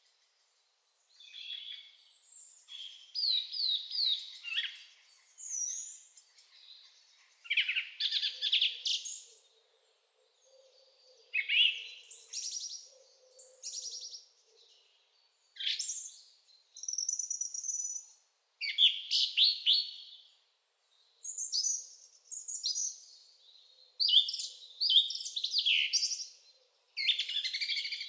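Songbirds singing: a run of short, quick, high-pitched warbling phrases, each a second or two long, with brief pauses between them.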